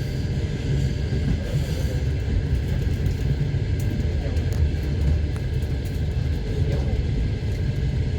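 Passenger train carriage running along the track, a steady low rumble of wheels on rails with a few faint clicks, heard from inside the carriage.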